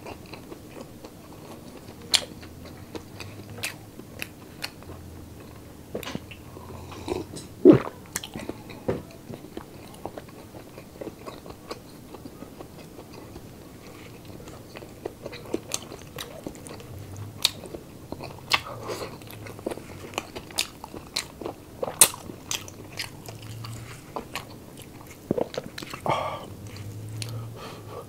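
Close-up mouth sounds of a person chewing and biting crunchy chopped pork sisig, with irregular sharp crunches and clicks.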